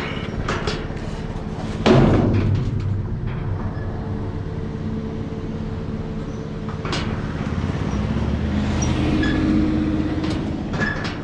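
Vehicle engine idling steadily, with a loud thump about two seconds in and a couple of sharper clicks later on.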